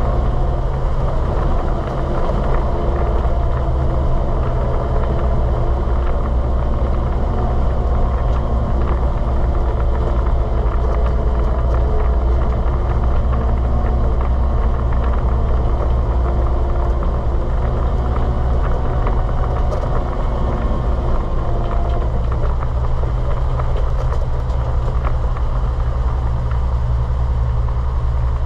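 1939 Dodge Brothers TE-32 1.5-ton truck engine running steadily at an even speed, with a low, constant hum.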